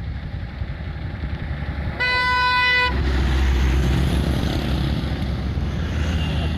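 Heavy vehicle's engine running with a single horn blast of about a second, two seconds in; right after it the engine rumble grows louder and deeper as the vehicle pulls hard.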